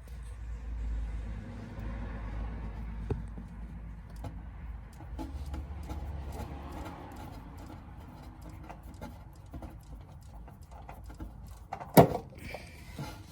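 Handling noise of a hand working the oil filter off a Polaris Ranger 1000 through the under-seat opening: low rumbling and scattered light clicks and knocks, with one sharp knock near the end.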